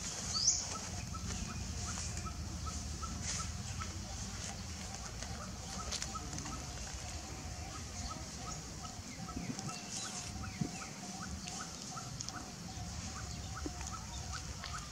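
Outdoor ambience of bird calls: a short call repeated evenly about three times a second, and a brief rising chirp about half a second in, over a low rumble.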